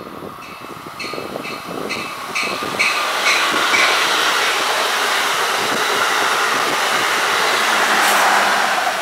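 Amtrak passenger train of coaches with an ACS-64 electric locomotive at the rear, approaching and rushing past at speed. As it nears there is a regular high ringing tick about twice a second. From about three seconds in, a loud steady rush of the passing cars takes over, loudest near the end as the locomotive goes by.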